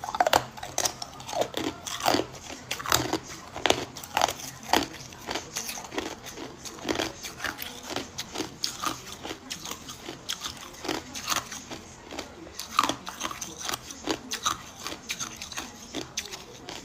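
Hard cube ice being bitten and chewed with a close microphone: a rapid, irregular run of sharp cracks and crunches, several a second, as the ice breaks between the teeth.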